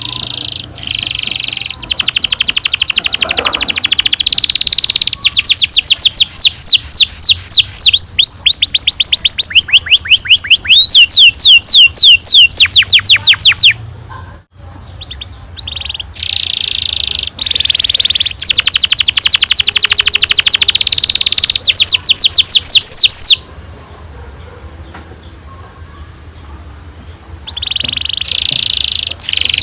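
Domestic canary singing long rolling trills of fast, repeated high notes. There are two long phrases, the first about twelve seconds and the second about seven, with a short break between them, then a quieter stretch before a new phrase starts near the end.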